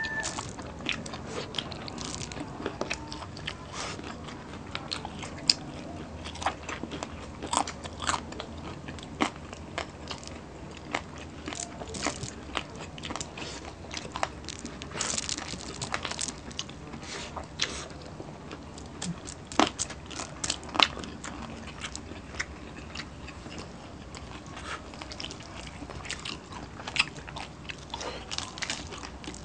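Close-miked eating: chewing with frequent, irregular crunchy bites, from two people eating crispy pork sisig, green chili and rice by hand.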